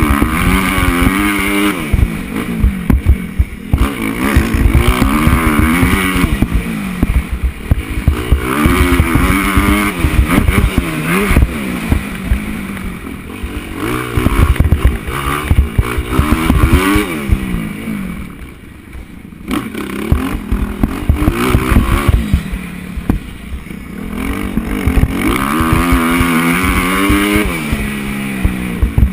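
Motocross bike engine revving hard and cutting back in repeated cycles as the rider shifts and rolls off between sections, with one longer drop in revs about two-thirds of the way through. Heavy low buffeting from wind and track bumps runs under it on the onboard camera.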